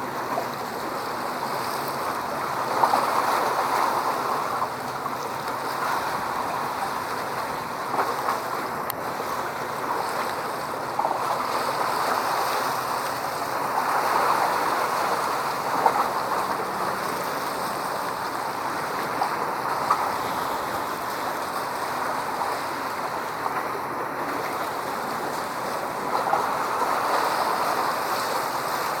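Rushing noise of waves and wind on open water, swelling and easing every several seconds, with a few brief knocks on the microphone.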